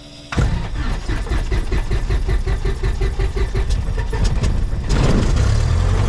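Cessna 172's piston engine being started: the starter cranks it in a fast even rhythm for several seconds, then the engine catches about five seconds in and settles into steady running.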